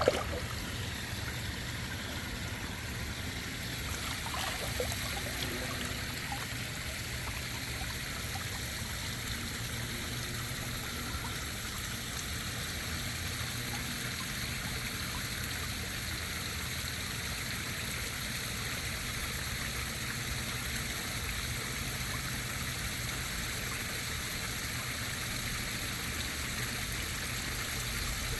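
Steady trickling, running water of a koi pond, with one short click right at the start.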